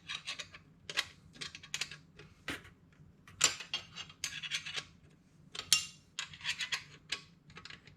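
Hand tools working on motorcycle exhaust header nuts: irregular metallic clicks and clinks of a ratchet and socket being turned and set down, some in short quick runs. A faint steady hum lies underneath.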